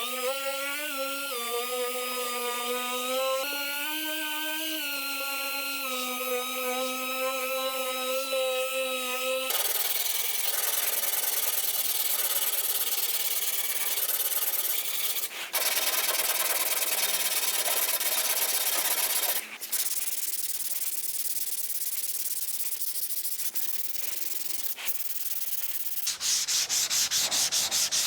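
A power sander sanding a car's quarter panel. For about the first nine seconds it is a steady, slightly wavering whine. Then it turns to a harsher, hissing scrub, broken twice by brief pauses, and near the end it becomes a fast, even pulsing.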